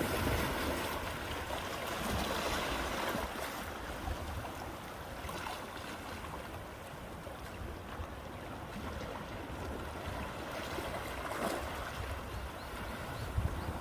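Calm sea waves washing ashore, a steady wash that eases off in the middle and swells again near the end, with a low rumble of wind on the microphone.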